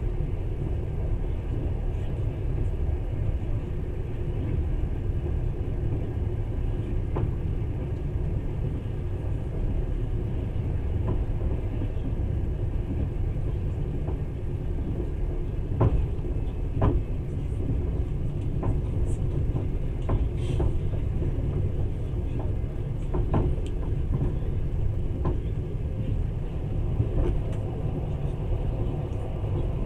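Passenger train running, heard from inside the carriage: a steady low rumble of wheels on the track, with a few scattered sharp knocks and rattles, the loudest two about halfway through.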